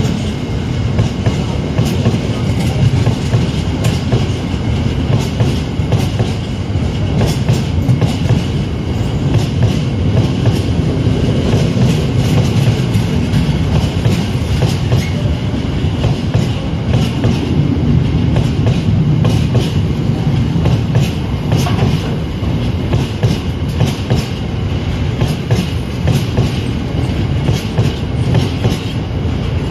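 Train running past on the track: a loud, steady rumble with many sharp wheel clicks on the rails.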